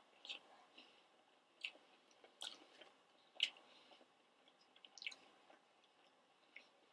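Faint, close-up mouth sounds of a person chewing fried chicken nuggets dipped in ranch: soft, irregular wet smacks and clicks, the loudest about three and a half seconds in.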